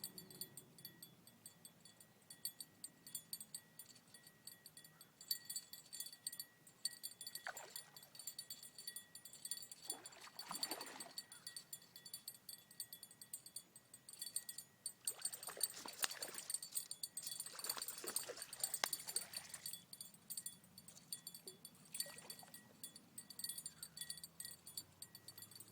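Faint outdoor ambience: steady high-pitched insect chirring, with several soft swells of rustling noise a few seconds apart.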